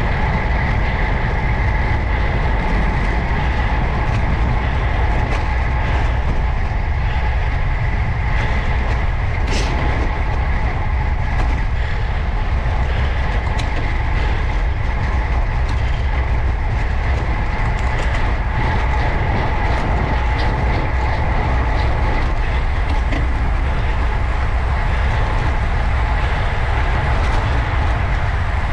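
Steady wind and road rumble on a ride-mounted camera's microphone while cycling at speed, with a faint steady whine and a few small ticks.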